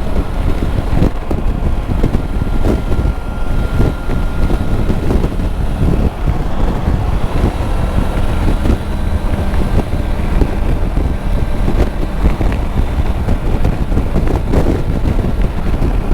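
Steady wind rush buffeting the microphone of a Triumph Tiger 900 motorcycle at highway speed, with the bike and traffic running underneath; the crosswinds are strong.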